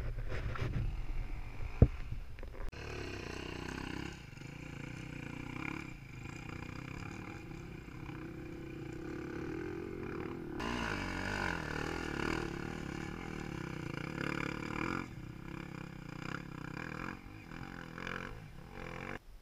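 Off-road dirt bike engine running, its revs rising and falling, with one sharp knock about two seconds in.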